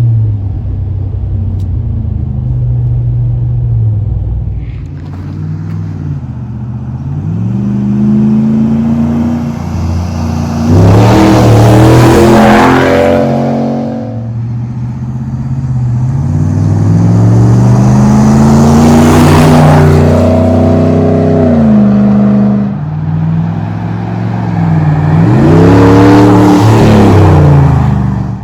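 The exhaust of a 2019 Ram Rebel pickup, fitted with a B2 Fabrication moderate muffler and resonator delete, surging three times. Each surge climbs in pitch and grows loud, then drops away.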